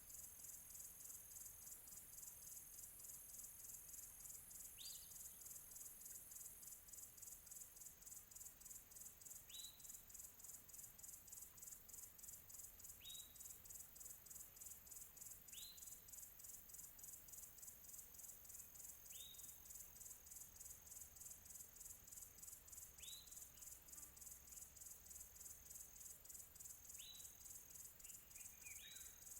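Faint, steady high-pitched insect trilling, finely pulsing, with a single short bird chirp every few seconds, about eight in all.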